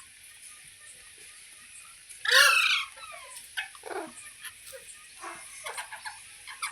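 Green parrot calling: one loud, harsh squawk a little over two seconds in, followed by several shorter, quieter calls.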